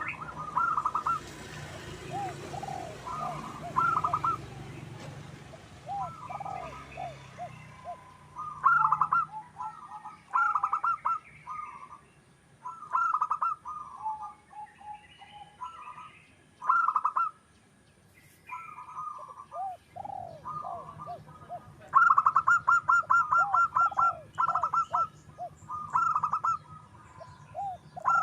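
Zebra dove (perkutut) cooing: repeated phrases of quick stuttering notes followed by short rolling coos, one phrase every second or two. A longer, louder run of rapid notes comes about 22 seconds in. Faint high chirping sounds behind it.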